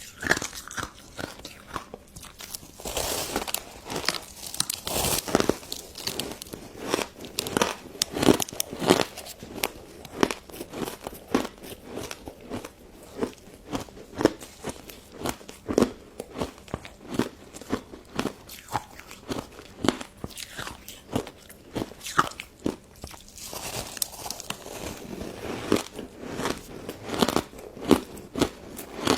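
Close-up crisp crunching and chewing of icy pink crystal snow ice dessert, with sharp, irregular crunches several times a second and denser bursts of crunching twice.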